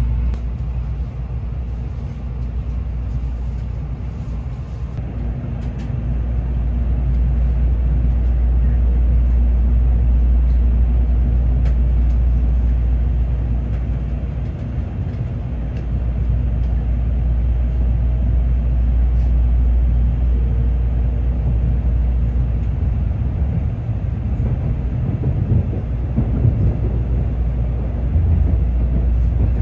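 Inside the passenger cabin of a Tokaido Shinkansen Kodama train: a steady low rumble of the train running as it pulls out of Tokyo Station, growing louder about six seconds in.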